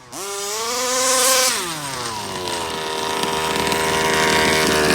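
Rovan 34cc two-stroke engine of an RC Baja buggy revving up hard, held high for about a second and a half, then dropping back and settling into a steady note that slowly climbs again.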